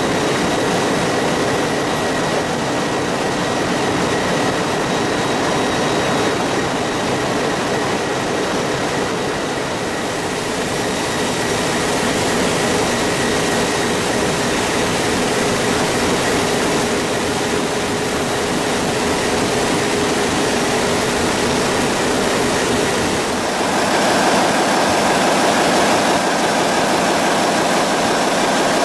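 Ship's engine-room machinery, the main engines running with a loud, steady mechanical din and steady tones. About 23 seconds in, the sound changes character, becoming brighter with less low rumble.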